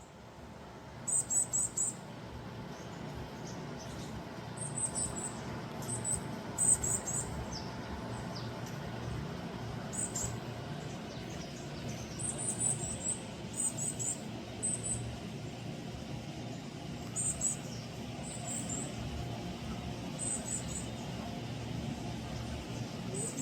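Japanese tit (Korean 박새) singing: short, very high-pitched phrases of three or four quick notes, repeated every second or two. Underneath is a steady low background rumble.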